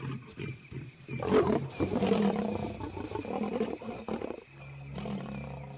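Lions snarling and growling in a fight over a kill, with harsh, rough calls from about a second in until about four seconds in. A steady low hum follows near the end.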